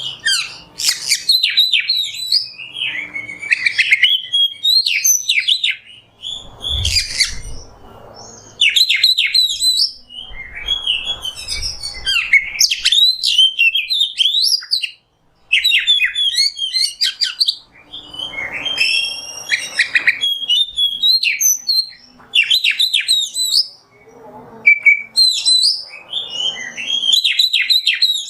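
Oriental magpie-robin (kacer) singing a loud, varied song of rapid whistled and chattering phrases, separated by short pauses.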